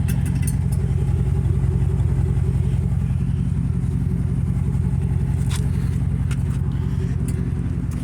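Chevrolet 5.3 L V8 idling steadily through an open exhaust, with the muffler and resonator cut off and only the factory catalytic converters left, on a cold start. A few light clicks come in the second half.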